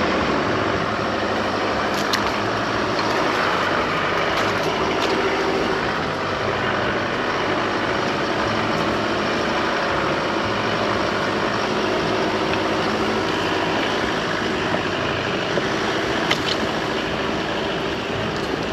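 Chevrolet Colorado ZR2 AEV Bison pickup driving a trail: steady engine and tyre noise, with a few sharp ticks scattered through.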